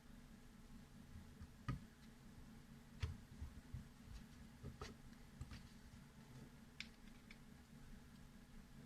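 Faint, scattered clicks and light taps from a folding knife being handled, about eight in all, the sharpest about two and three seconds in, over a low steady hum.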